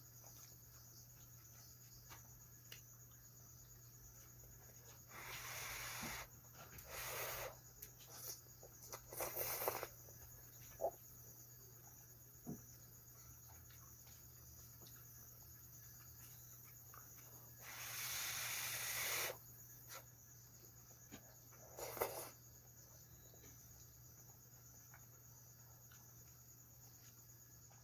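Mouth sounds of a person eating hot ramen noodles: a handful of short, breathy slurping bursts, the longest about a second and a half, with a few small clicks between them.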